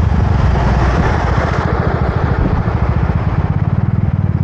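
A Suzuki motorcycle engine running steadily while riding, its exhaust pulsing fast and low, with wind rushing over the microphone.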